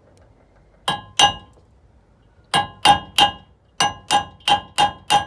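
Hammer striking a nail held against the pin of a trailer hitch's spring bar locking device, driving the pin out. About ten ringing metal strikes: two about a second in, then a steady run of about three a second.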